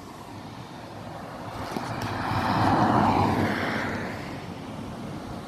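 A motor vehicle passing close by: its noise swells to a peak about three seconds in, then fades away.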